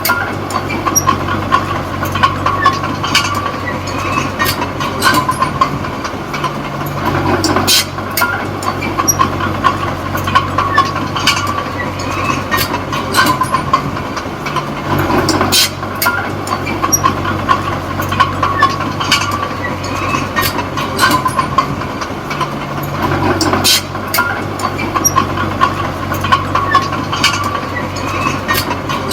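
A small D20P crawler bulldozer's diesel engine running steadily, with its steel tracks clanking and squeaking throughout. The engine note shifts in a repeating cycle about every eight seconds as the dozer works back and forth.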